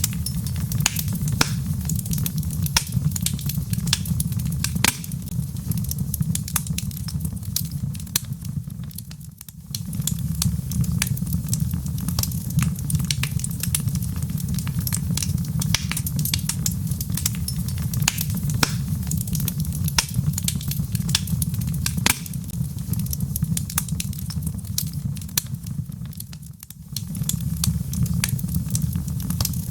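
Wood log fire crackling, with many sharp pops and snaps over a steady low rumble of burning. Twice the sound briefly fades and swells back.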